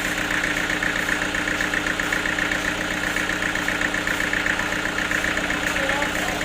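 Sawmill machinery running steadily, with a constant hum and a fast, even buzz.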